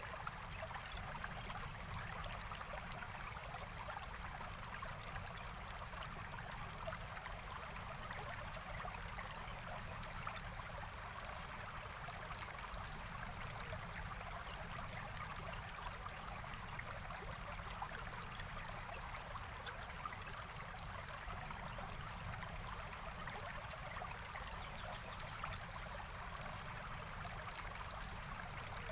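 A forest stream flowing steadily, a constant rush of water with no breaks or changes.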